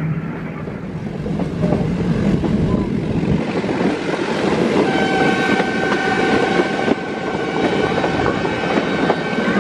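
Metre-gauge train running on the rails, heard from an open coach window. About halfway in, the locomotive's horn starts a long steady blast that carries on to the end.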